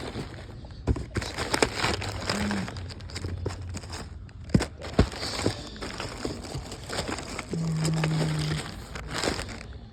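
Rustling and crinkling with a run of sharp clicks and knocks, like items being handled and sorted, over a steady background. A short steady low hum sounds about three-quarters of the way through.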